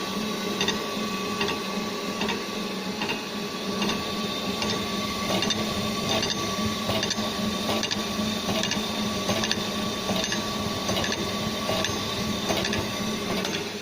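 GD 450Q circular saw blade grinder running, its grinding-wheel motor humming steadily with a regular repeating stroke as it works tooth by tooth along the blade. It stops near the end.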